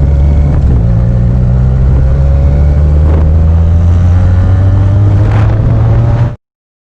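Benelli TNT 300 parallel-twin motorcycle engine with an aftermarket Yoshimura exhaust running steadily at low revs, rising slightly in pitch, until the sound cuts off abruptly about six seconds in.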